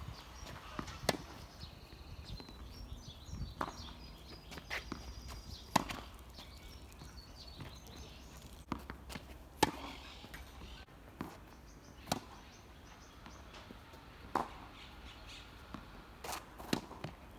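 Tennis balls struck with a Head Graphene 360 Extreme racket strung with Tecnifibre Black Code 1.24 polyester at 20 kg (44 lb): a sharp pop off the strings every two to three seconds, with lighter ball bounces in between. The balls are pressureless.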